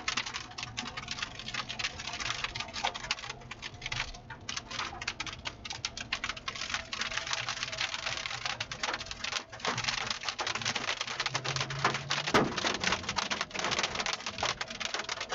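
Rain striking a vehicle's roof and windshield: a dense, uneven run of small clicks that gets heavier about four seconds in.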